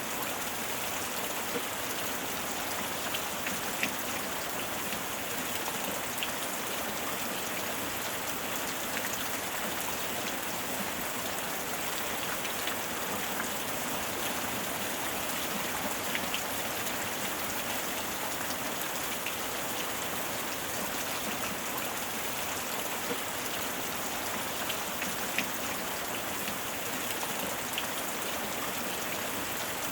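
Steady heavy rain falling on a hard surface: a dense, even hiss with scattered small drop ticks.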